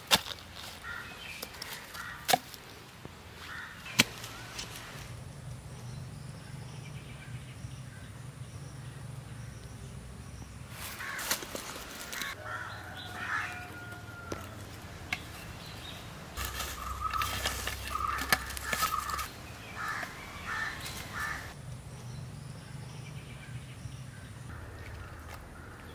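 Birds calling, mostly in the second half, with a few sharp clicks in the first four seconds.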